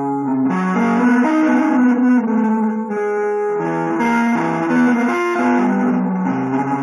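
Guitar playing a fast, busy line of changing notes with some notes held under it, in a jazz-fusion or avant-garde style.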